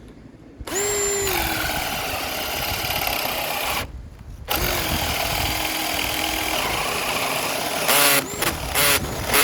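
Bauer 20-volt cordless drill boring holes in wood with a spade bit: the motor spins up to a steady whine and runs for about three seconds, stops briefly, then runs again for about three seconds. Near the end come several quick trigger blips.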